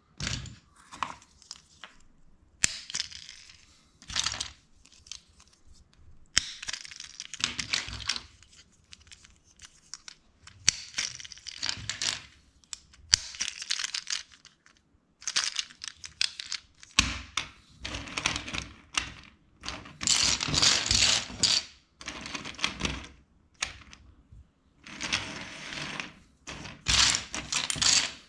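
Plastic LEGO pieces being handled and pressed together: quick runs of clicks and clatter, coming in bursts with short pauses between them.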